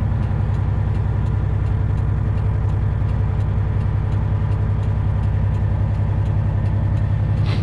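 Semi truck's diesel engine running steadily at low speed, a constant low drone.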